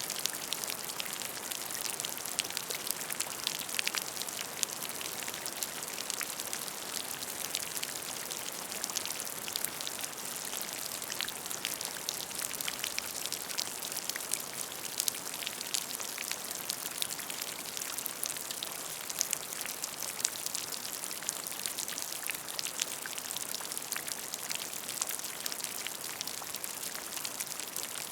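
Steady rain falling on a puddle of water: a dense continuous hiss with many small, distinct drop splashes ticking through it.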